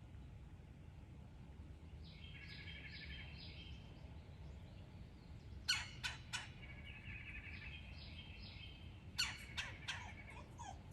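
Wild birds calling: two fast trilling songs, and sharp short calls, three about six seconds in and a quicker run of them near the end, over a low steady outdoor rumble.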